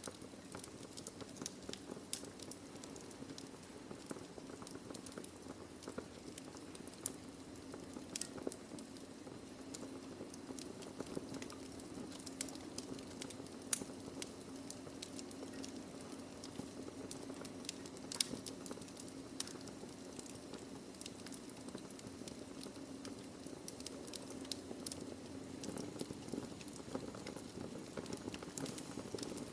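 Wood fire burning in a fireplace: logs crackling with many small irregular pops over a steady low hiss. The sharpest pop comes about halfway through.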